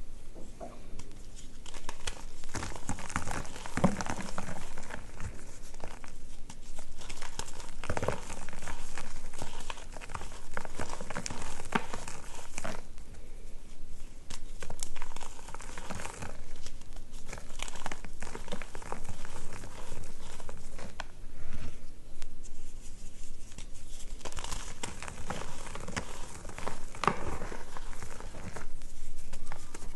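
Reformed gym chalk (magnesium carbonate) flowers and bars crunching and crumbling as they are crushed, an uneven run of crisp cracks and crackles with brief pauses.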